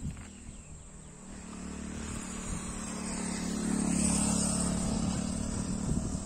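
Motor vehicle engine running steadily, growing louder for a few seconds as it draws nearer, then holding.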